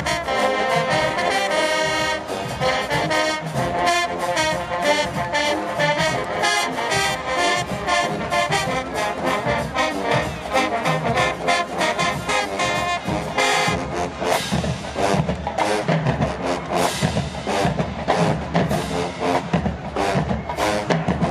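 HBCU show-style marching band playing, with brass horns over drums. About two-thirds of the way through, the held horn chords drop back and a run of sharp, rapid drum hits takes over.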